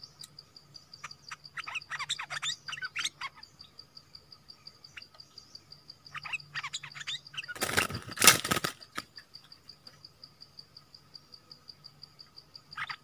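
Songbirds giving groups of short, downward-sliding calls, over an insect's steady, rapid, high pulsing chirp. A little past halfway comes a loud rustling flutter lasting about a second, fitting a bird flapping in a trap cage as it is sprung.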